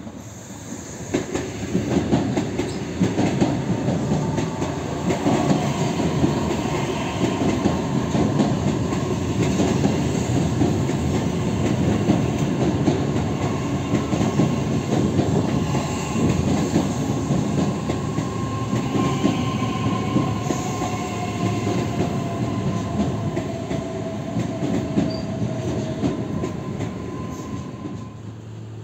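Electric multiple-unit commuter train running past close by: a steady rumble of wheels on the rails with clatter over the track. A faint motor whine falls slowly in pitch in the second half.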